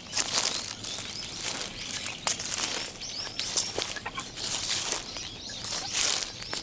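Footsteps crunching through dry fallen leaves, an irregular rustling crackle roughly once a second, with a few brief bird chirps.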